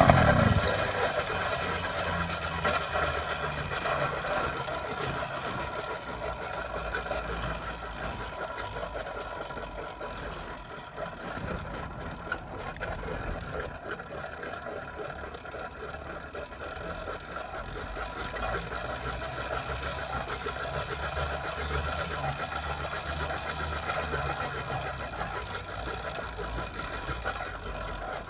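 Small engine of a motorized bicycle with an upgraded exhaust, running steadily. It drops sharply in loudness right at the start, then grows a little louder again in the second half.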